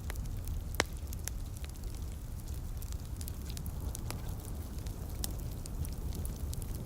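Wood fire crackling with scattered pops, one sharper pop about a second in, over a steady low rumble and the hiss of light rain.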